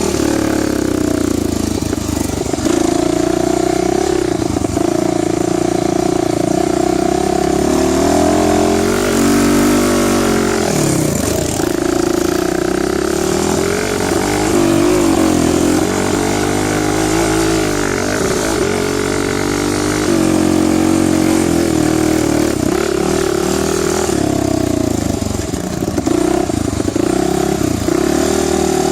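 Dirt bike engine running under way, its pitch rising and falling again and again as the revs go up and down with throttle and gear changes.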